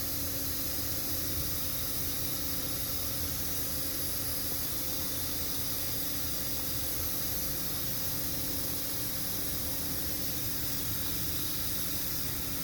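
Steady background hiss with a faint, even hum; nothing starts or stops.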